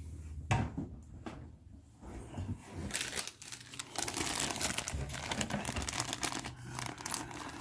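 Plastic bags of miniatures being handled and crinkled: a few light clicks and rustles at first, then steady crackling from about three seconds in.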